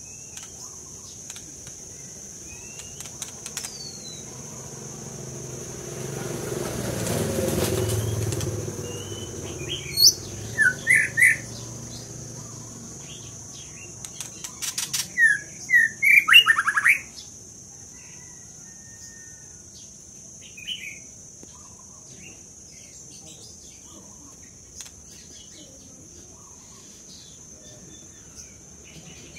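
Songbird singing in two short bursts of quick, loud whistled notes, the second a longer rapid run, over a steady high-pitched hum. A low rumble swells and fades just before the first burst.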